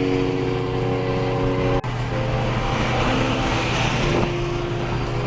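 Car engine running steadily while driving, with a brief break about two seconds in after which its pitch settles a little differently.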